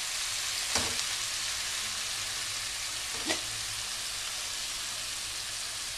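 Broccoli and garlic sizzling steadily in a hot wok as chunks of avocado are dropped in by hand. Two short knocks sound over the sizzle, one about a second in and another a little past halfway.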